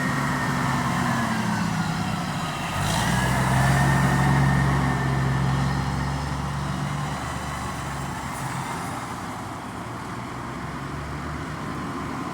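Motor vehicles driving past. An engine hum drops in pitch over the first couple of seconds, a louder one comes in about three seconds in, and it fades slowly toward the end.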